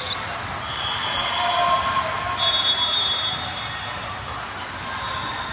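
Echoing sports-hall ambience during a match: indistinct crowd chatter and court noise. Two brief high-pitched squeaks come about one and two and a half seconds in.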